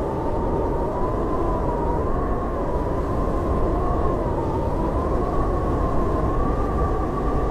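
Howling blizzard wind: a steady rushing noise with a thin whistling tone that wavers slowly up and down.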